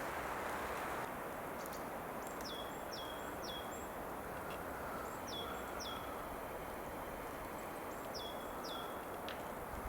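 Steady hiss of outdoor noise in a snowstorm, with a bird calling over it: short high notes that slide down, in groups of two or three, three times.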